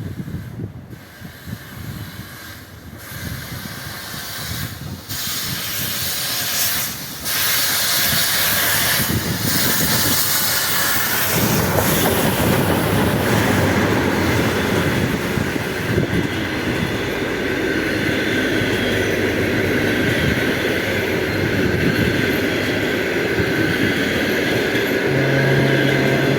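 Soviet P36-class steam locomotive hauling a passenger train, growing louder as it approaches over the first seven seconds or so, then running close by at a steady, loud level.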